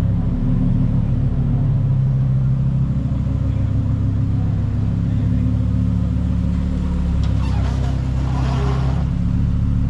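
Lamborghini Huracán STO's naturally aspirated V10 running at a low, steady idle as the car creeps forward at walking pace.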